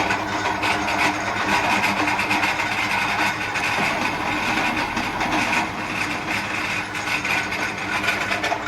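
Steady machine-driven metal scraping on a 3 HP electric motor rotor shaft as its left-hand check-nut thread is worked, a continuous rasping noise that starts abruptly and dies away near the end.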